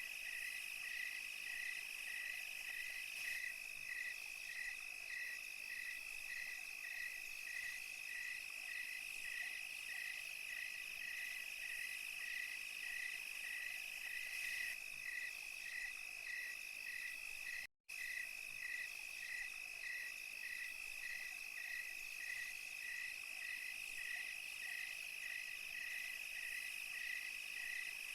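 Night insect chorus of crickets: a steady high trill with a chirp repeating about twice a second. The sound cuts out completely for an instant about 18 seconds in.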